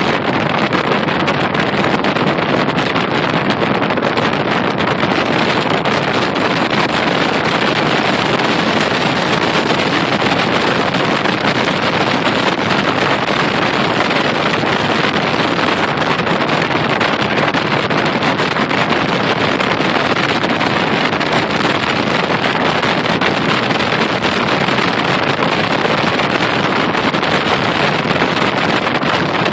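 Steady loud rush of wind and road noise from a car driving at speed, with no distinct engine note or impacts.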